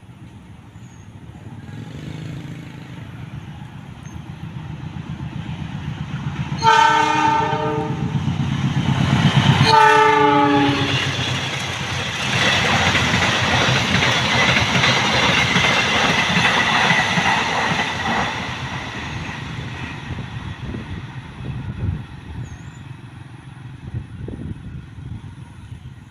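An Indonesian passenger train approaching and passing at speed. Its rumble builds, the locomotive sounds two horn blasts, the second lower in pitch as it goes by, then the carriages rush and clatter past over the rails and fade away.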